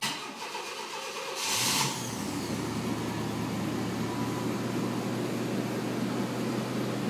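Cold start of a 1991 Chevy S10's 4.3 L V6: the starter cranks for about a second and a half, the engine catches with a brief loud flare, then settles into a steady idle.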